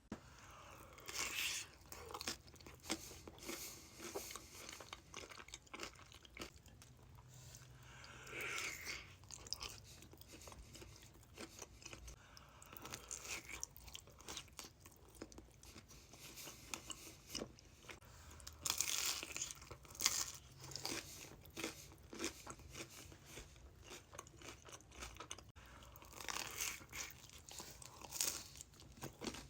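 Close-miked eating sounds: bites and chewing with crisp crunching, louder crunches coming every few seconds between softer wet chewing clicks.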